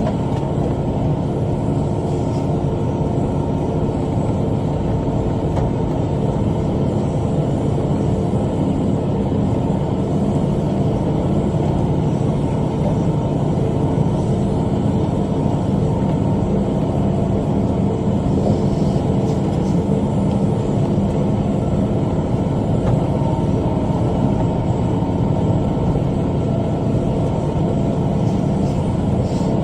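Kubota M5 tractor's diesel engine running steadily under load with its rotary cutter (bush hog) spinning, a constant deep rumble.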